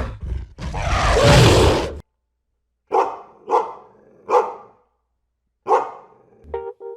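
A dog barking four times, in short separate barks. Before the barks comes a loud rushing noise lasting about two seconds, and plucked music notes start near the end.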